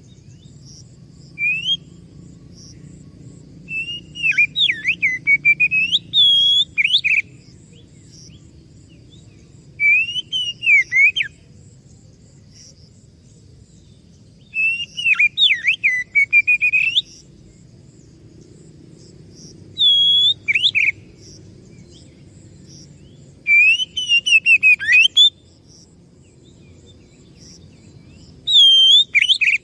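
Oriental magpie-robin (kacer) singing: loud whistled phrases full of quick rising and falling sweeps, a burst of song every few seconds, over a faint low hum.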